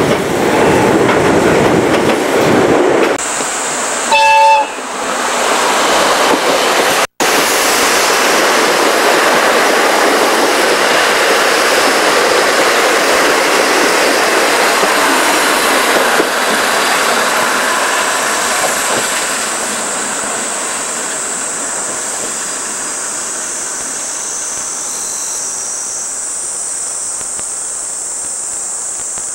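Old-type passenger coaches running, a loud rumble heard from the open rear deck, with a short train horn blast about four seconds in. After a cut, the coaches roll past and their noise fades as the train pulls away, leaving a high steady insect drone near the end.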